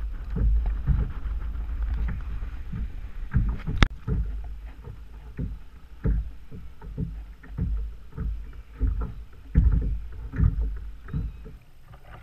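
Irregular knocks and thumps aboard a fishing kayak, over a low rumble, with a sharp click about four seconds in.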